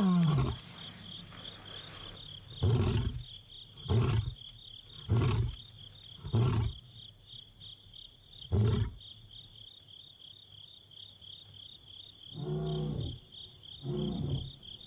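Young male lion roaring to call a lost companion: the end of a long falling moan, then about five short deep grunts a second or so apart, and two more calls near the end.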